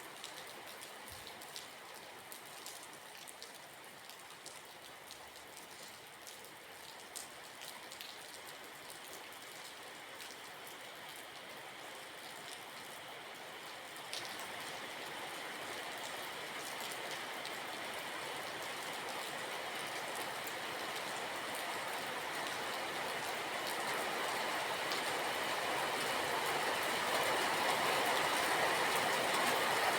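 Rain falling, with individual drops ticking on a surface. About halfway through a steady rushing noise comes in and grows gradually louder to the end.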